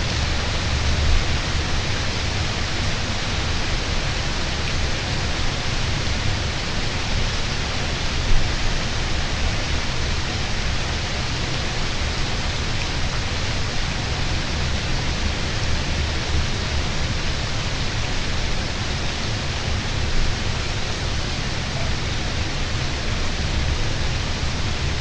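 Steady rain falling: an even, unbroken hiss with a low rumble underneath, and a single sharp tick about eight seconds in.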